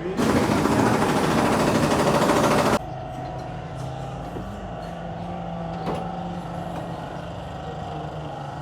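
A loud, steady hiss of compressed air, like an air blow gun, lasting about two and a half seconds and then cutting off suddenly. After it comes a quieter steady hum with a couple of light clicks.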